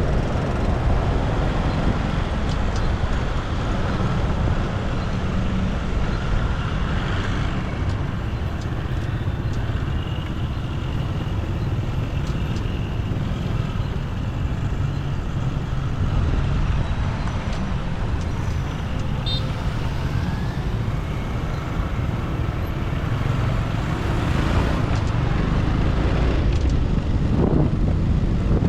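Motorbike engine running steadily while riding, with the rumble of wind on the microphone and road traffic around it.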